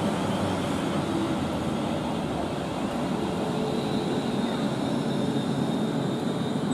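Electric multiple-unit train running on the main line: a steady rolling rumble, with a thin high whine coming in about four seconds in.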